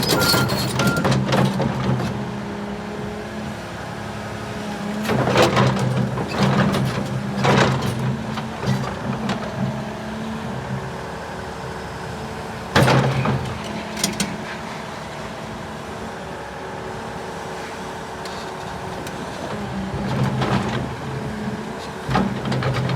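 Diesel engine of a 2018 Volvo EC350EL hydraulic excavator running steadily, rising and falling in level at times. Several sharp metallic clanks occur, the loudest about thirteen seconds in.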